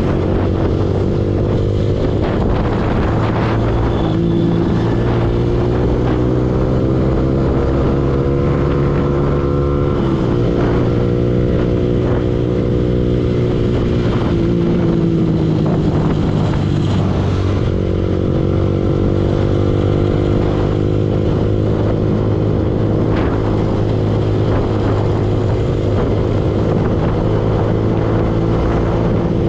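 Yamaha R15 V2 motorcycle's single-cylinder four-stroke engine running steadily on the move. Its pitch drops and climbs back up about ten seconds in and again around sixteen seconds in.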